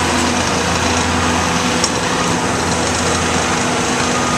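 Diesel engine of heavy equipment running steadily at a constant speed.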